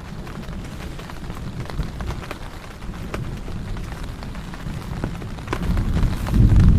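Heavy rain falling steadily, with scattered drops ticking on a nearby surface. About five and a half seconds in, a low rumble of thunder builds and is loudest near the end.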